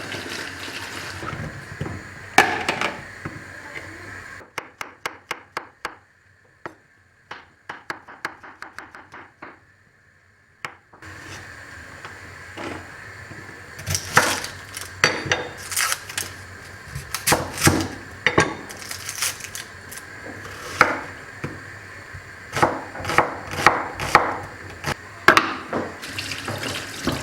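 Kitchen work sounds: running water and the knock and clatter of dishes and utensils. In the middle is a stretch of quick, evenly spaced sharp clicks in near quiet.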